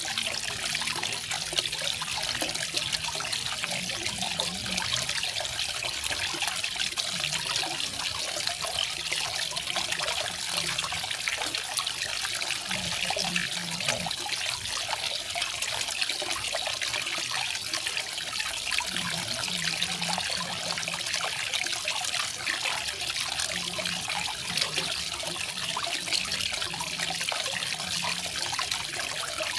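Small garden waterfall, water falling and splashing steadily in a bright, hissing stream.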